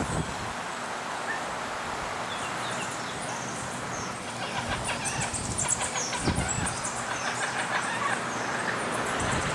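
Many small birds chirping and calling rapidly over a steady rushing background noise, with a dull thump about six seconds in.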